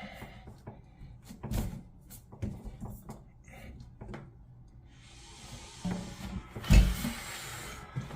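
Scattered knocks and clunks of parts and tools being handled, then a steady hiss lasting about three seconds with one loud thump in the middle of it.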